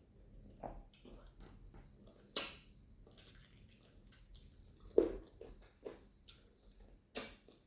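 Close-up eating sounds: wet chewing, lip smacks and mouth clicks while eating pounded yam with egusi soup, with three louder smacks or gulps spread through.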